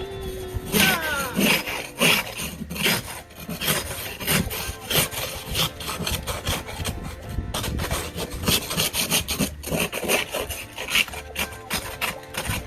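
Snow being scraped off a car in repeated, irregular strokes.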